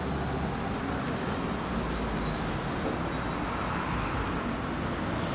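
Electric multiple unit approaching slowly, a steady rumble of its running gear and motors.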